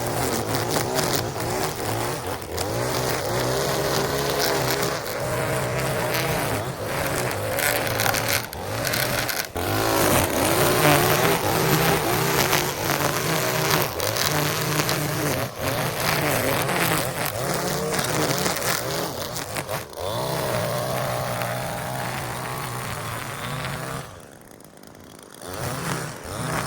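Small petrol engine of lawn equipment running, its pitch wavering as the load changes, with scattered knocks. It drops away briefly near the end and then picks up again.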